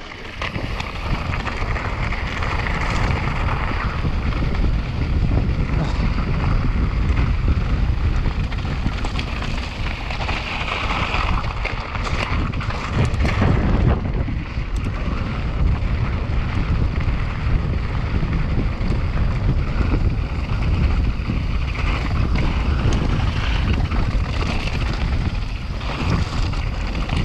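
Wind buffeting the microphone of a mountain bike descending at speed, with the steady rumble and rattle of the tyres and bike over a rough, loose trail.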